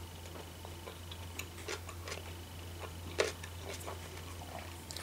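Quiet close-mouthed chewing of a large sushi roll: scattered soft wet mouth clicks, one a little louder about three seconds in, over a low steady hum.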